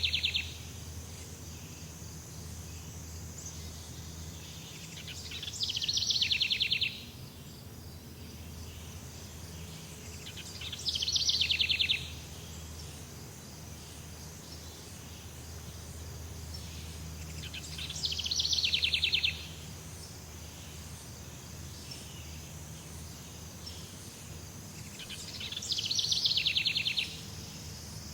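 Jungle ambience: a rapid, pulsing trill call, from a bird or insect, swells for a second or so and cuts off abruptly. It repeats about every seven seconds over a steady high hiss and a low hum.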